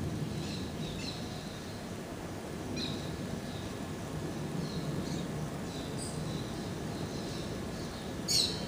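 Small birds chirping briefly now and then over a steady low background rumble of outdoor ambience, with one louder, sharper chirp near the end.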